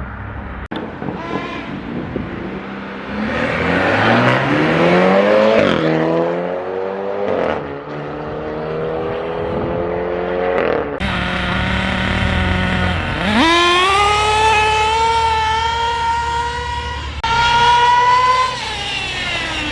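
Engines revving hard and accelerating. The engine note climbs in pitch and falls back off several times, with a long high-pitched pull near the end.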